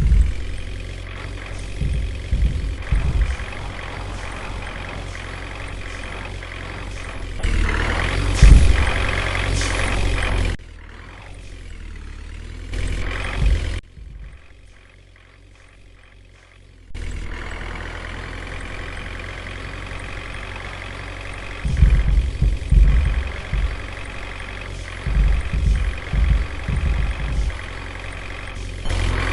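Truck engine running: a steady low rumble with irregular low thumps and bumps, heard across several short clips that cut abruptly from one to the next, one of them much quieter.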